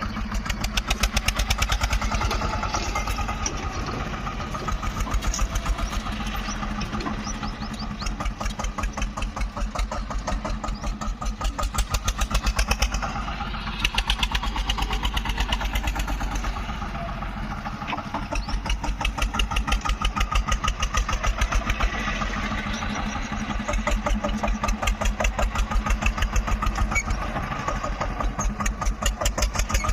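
Tractor diesel engine running with a fast, even pulse, working a homemade front loader: it rises in loudness for stretches of a few seconds and drops back to a lower note in between, several times over.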